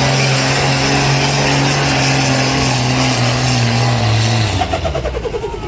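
A pulling vehicle's engine running hard at full throttle, a loud steady drone. About four seconds in it drops in pitch and then fades, as the run ends.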